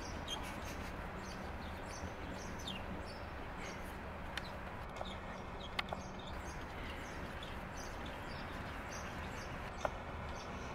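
Outdoor ambience with scattered short, high bird chirps and a few sharp taps.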